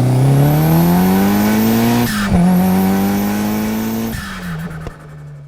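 Ford Mk1 Escort rally car's engine accelerating hard: the revs climb, drop briefly at a gear change about two seconds in, climb again through a second gear, then the throttle is lifted and the revs fall away near the end.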